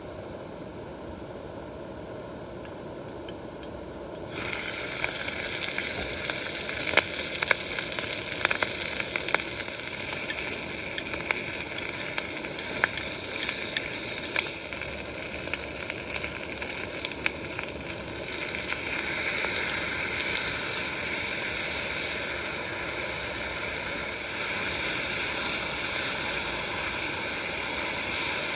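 Campfire hissing and crackling over the steady rush of a river. About four seconds in, a louder hiss sets in, and sharp pops come and go for the next dozen seconds or so.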